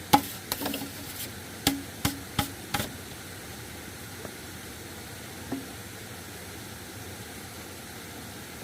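A quick run of about seven sharp knocks in the first three seconds, a few of them ringing briefly, then one fainter knock midway, over a steady hiss of background noise.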